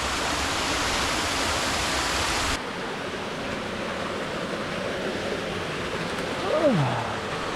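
Stream water rushing over rocks in a steady, full hiss. About two and a half seconds in it abruptly turns quieter and duller. Near the end comes one short sound falling in pitch.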